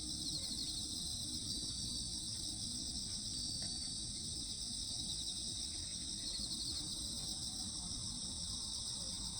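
Steady, high-pitched chorus of insects such as crickets, over a low rumble.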